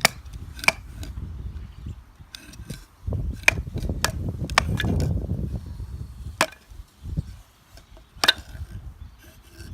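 Firewood being split with a knife: about seven sharp wooden knocks at irregular intervals, with a low rumbling noise swelling between about three and six seconds in.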